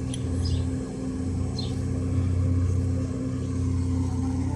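A large engine running steadily at idle, a constant low rumble that cuts off suddenly at the end.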